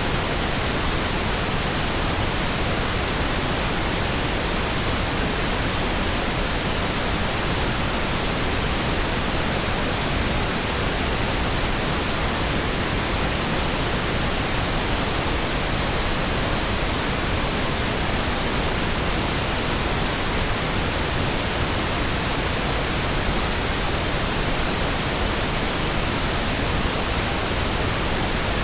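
Synthetic pink noise: a steady, even hiss spread across all pitches, with no changes or interruptions.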